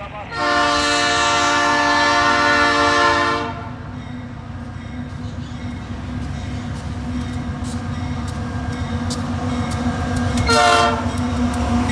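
Freight locomotive's air horn sounding one long chord-like blast of about three seconds, then a short blast near the end, over the low rumble of the approaching diesel locomotive, which grows louder.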